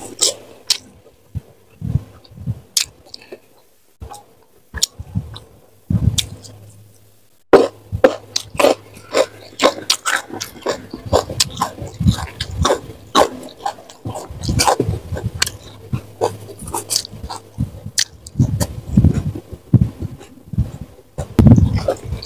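Close-miked eating sounds: chewing and crunching with wet mouth clicks and smacks. Sparse at first, then a dense run of crunching from about a third of the way in.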